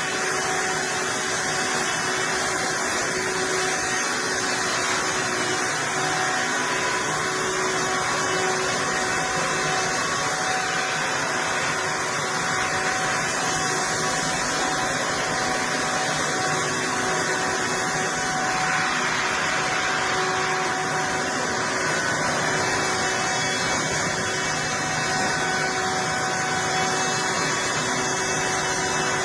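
Sawmill machinery running steadily: an even mechanical hum and hiss with a constant whine, unchanged throughout.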